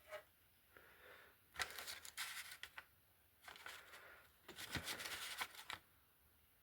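Faint handling noise: rustling and light clicking in three short clusters as bits of debris from an engine sump are picked through by hand.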